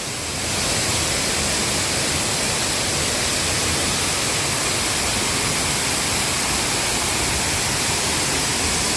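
Steady rushing roar of a large waterfall heard close up, getting a little louder about half a second in.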